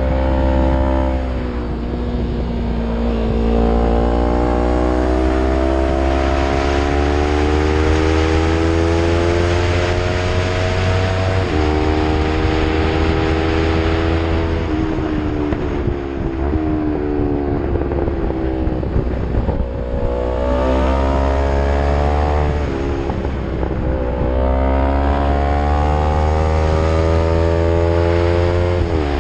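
Yamaha MT-03 with an Arrow full-system exhaust under way uphill, the engine note rising slowly as it pulls in each gear and dropping sharply at each gear change, several times over.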